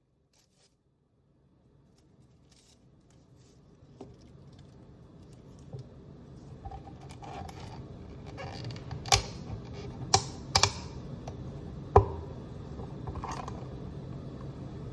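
Quiet room background fading in from near silence, with a handful of sharp clicks and taps; the loudest come about nine, ten and twelve seconds in.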